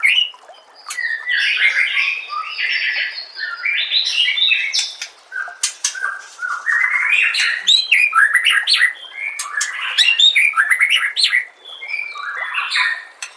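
White-rumped shama singing loud, varied song phrases with rapid trills and sharp notes, broken by short pauses.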